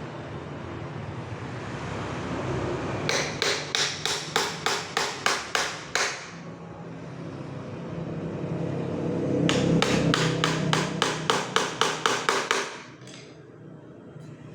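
Hammer driving nails into a wooden packing crate: two quick runs of about a dozen evenly spaced blows each, roughly four a second, over a steady background noise.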